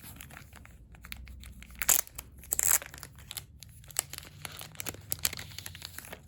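Crinkly plastic packaging being handled and torn open by hand: a run of small crackles, with two louder rips about two seconds and just under three seconds in.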